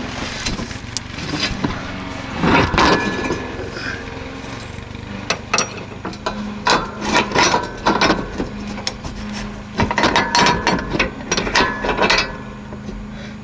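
Irregular metal clanks and knocks as a snow plow's steel mounting brackets and bolt are shifted and worked into line under a riding tractor, in clusters with short pauses, over a steady low hum.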